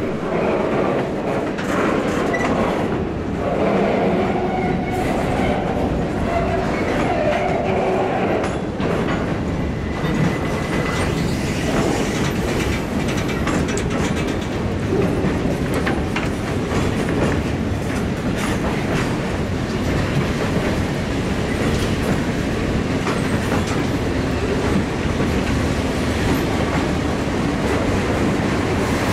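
Freight cars, a covered hopper and then boxcars, rolling past on steel wheels, clicking over the rail joints with a steady rumble. There is some faint metallic wheel squeal in the first several seconds.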